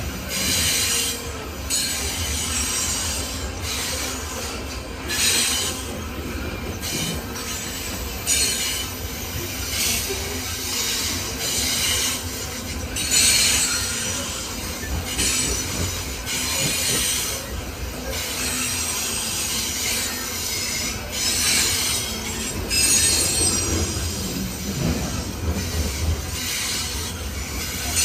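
Coal cars of a long freight train rolling past, their steel wheels squealing in repeated high-pitched bursts over a steady low rumble.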